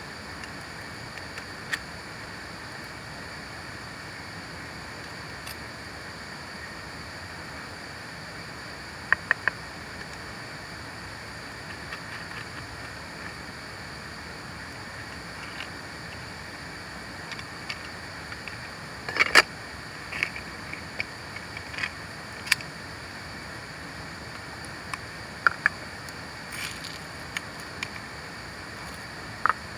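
Steady hiss of water, with scattered small sharp clicks and knocks, a cluster of louder ones about two-thirds of the way through.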